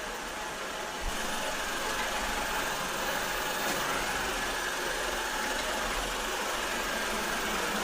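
Shark ION AV752 robot vacuum running steadily as it cleans, with a low rumble that gets louder about a second in.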